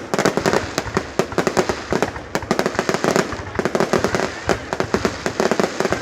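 Fireworks going off in a dense, unbroken barrage of sharp bangs and pops, many a second and overlapping.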